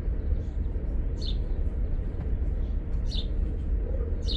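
A bird repeating a short, high, falling chirp about three times, every second and a half or so, over a steady low rumble.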